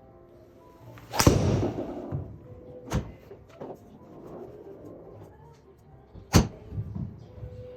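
Golf club striking the ball with a sharp crack, twice about five seconds apart, with a smaller knock between them.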